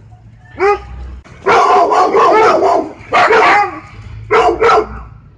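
A dog barking in bursts: a single bark about half a second in, a dense run of barking for about a second and a half, then a few more sharp barks near the end.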